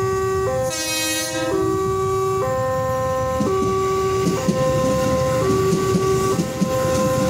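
Railway level-crossing warning alarm sounding its two alternating tones, a low and a higher one, each held for just under a second. About a second in, a horn sounds over it for about a second. From about three and a half seconds in, irregular low knocks join in.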